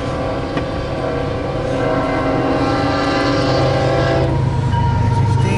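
Freight locomotive air horn sounding one long chord, cutting off about four seconds in, over a low rumble that then grows louder.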